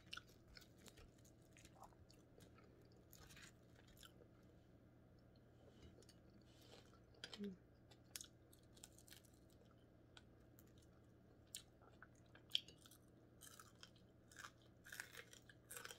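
Faint, close-miked eating sounds of crispy fried bigeye scad (matambaka) eaten by hand: soft crunches and chewing, heard as scattered small clicks over a low steady hum.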